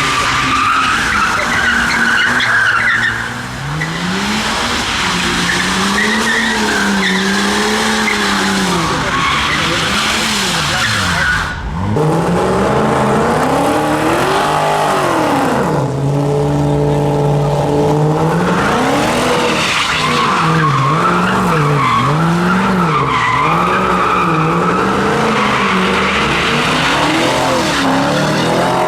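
A car doing a burnout: its engine revs up and down again and again while the spinning tyres squeal. Partway through, the revs are held steady for a couple of seconds.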